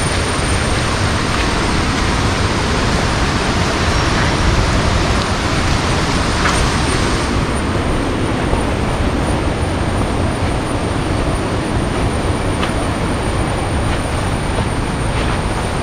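Waterfall swollen by monsoon rain, water rushing in a steady, loud wash of noise; the hissing top end softens a little about halfway through.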